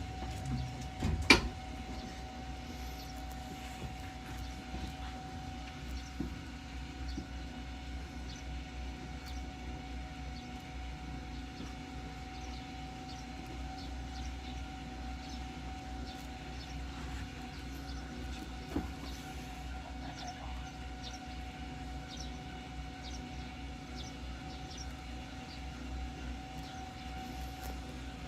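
Ichibata Electric Railway 7000-series railcar standing at a stop with its onboard equipment humming steadily: a low rumble and an unchanging tone. A single sharp knock sounds about a second in, with faint ticks scattered throughout.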